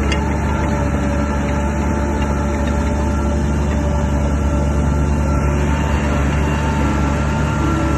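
Shantui DH17 crawler bulldozer running steadily with a heavy diesel engine drone and a few steady whining tones above it.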